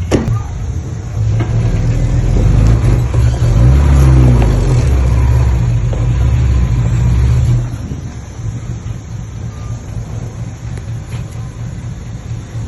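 Heavy diesel earthmoving machinery running, a deep engine note that works harder for about six seconds and then eases back to a lower level.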